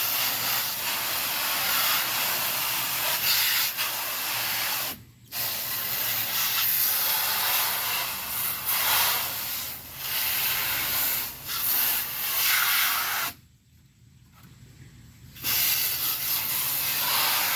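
Hose spray nozzle spraying water onto a grimy window air-conditioner part, a loud steady hiss that cuts out briefly about five seconds in and again for about two seconds near the end, washing the dirt off.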